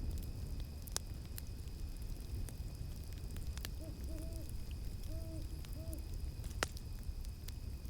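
Campfire crackling with scattered sharp pops over a low rumble of flames. An owl hoots in a short run of four hoots about halfway through, over a steady high insect drone of cicadas.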